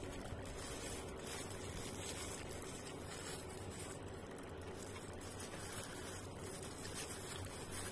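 Faint chewing of a mouthful of rice and fried chicken, over a steady low hum and hiss.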